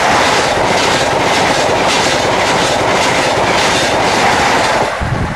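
A train passing close by at speed, its wheels clattering over the rail joints; the sound falls away sharply near the end as the train goes past.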